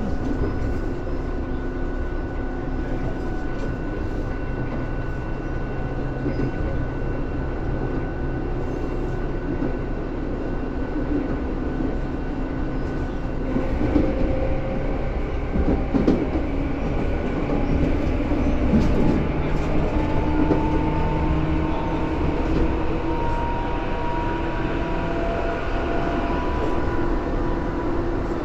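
Tobu 10000 series electric train running, with a steady rumble of wheels on rail and the hum of its traction motors. About halfway a few knocks sound from the track and a higher tone comes in. From there the motor tones slowly rise in pitch as the train picks up speed.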